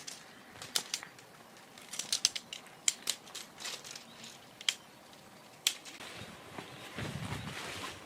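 Irregular light clicks and crinkling rustles, with a denser stretch of rustling about seven seconds in.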